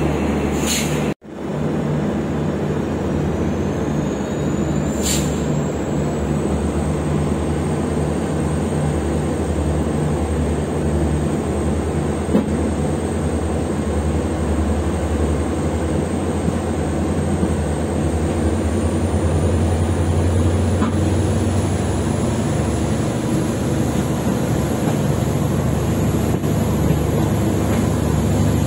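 Express train with LHB passenger coaches running along the track: a steady, loud rumble, with a thin high whine that climbs slowly in pitch. The sound drops out for a moment about a second in.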